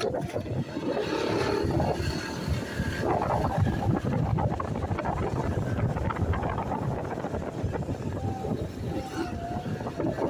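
Steady vehicle noise mixed with wind on the microphone.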